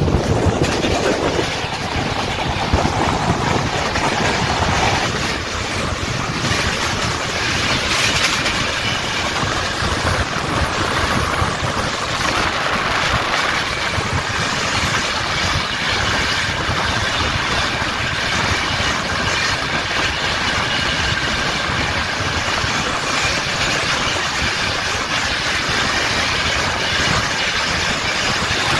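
Passenger trains rushing past at speed: a steady, loud rushing roar of coaches on the rails, with wind buffeting the microphone.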